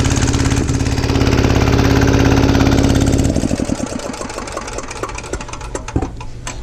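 Single-cylinder 196cc 168F diesel generator engine running hard under electrical load, its note cutting off about three seconds in, leaving fainter irregular knocks and clatter.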